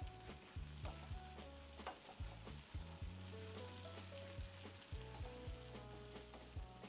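Sliced zucchini and onions sizzling faintly in olive oil in a nonstick frying pan on medium-high heat. A wooden spoon stirs them continuously, with occasional light scrapes and knocks against the pan.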